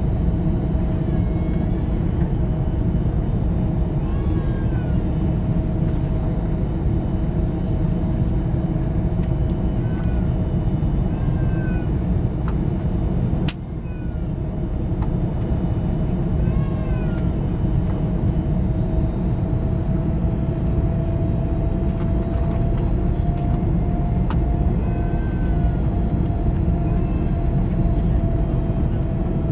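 Steady cabin noise of an Airbus A321neo with Pratt & Whitney PW1100G geared turbofans: a deep rumble of engines and airflow with a steady whine that rises slightly in pitch in the second half. Faint short high cries come through a few times.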